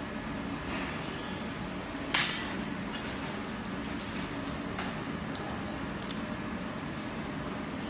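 One drawn arc shear stud weld: a short, loud crack about two seconds in as the stud welding gun fires, over a steady machine hum.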